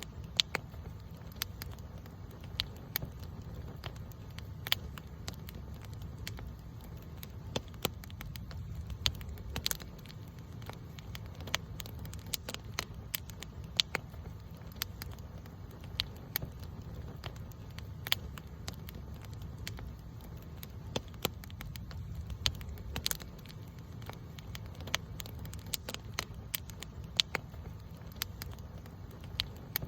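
Campfire burning, with frequent irregular sharp pops and crackles of wood over a steady low rumble of the flames.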